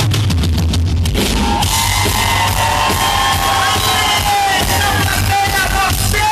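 Live band music with pounding drums that stops about a second and a half in, giving way to a crowd cheering and screaming.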